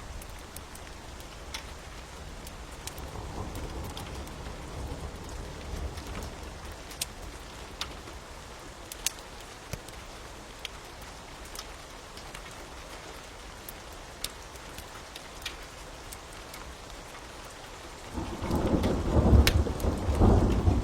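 Steady rain with scattered sharp crackles of a wood fire. A soft rumble of thunder comes a few seconds in, and a loud rumble of thunder starts near the end.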